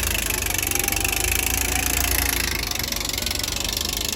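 A boat's engine running steadily: a low rumble under a broad, even hiss.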